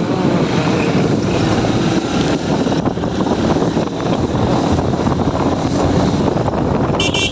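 Wind rushing over the microphone of a moving motorbike, with engine and road traffic noise underneath. A vehicle horn starts sounding right at the end.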